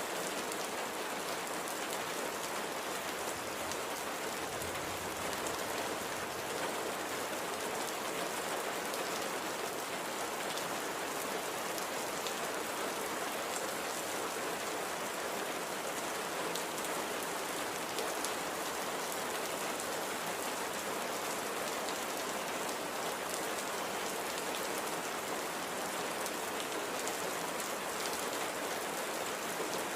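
Light, gentle rain falling steadily, a continuous even patter of many small drops.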